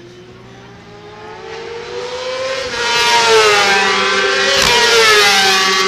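Racing motorcycle engine at high revs, its note climbing as it accelerates and then dipping at a gear change about three seconds in. It grows loud as the bike passes close.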